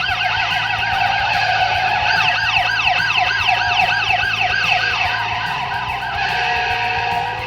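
Several police car sirens wailing over one another. One is in a rapid yelp of about four rises and falls a second; others sweep repeatedly downward in pitch.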